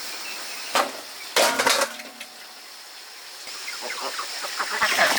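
Chickens clucking, with a sharp knock just under a second in and a louder burst of sound about a second and a half in.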